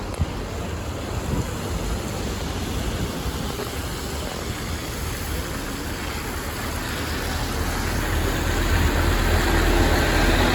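City bus approaching, its engine rumble and tyre noise growing louder over the last few seconds above steady road traffic noise. A short click right at the start.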